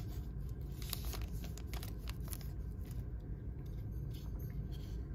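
Light rustling, crinkling and small clicks of a just-opened trading-card pack's wrapper and the baseball cards being handled and sorted, over a low steady hum.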